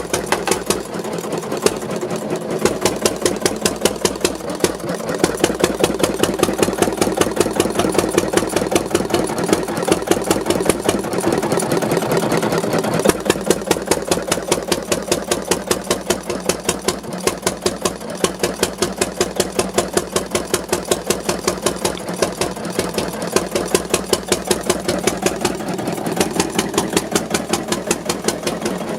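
Schlüter Verdampfermotor, a single-cylinder, low-speed evaporation diesel stationary engine with a large flywheel, running steadily with an even, regular beat from each firing stroke.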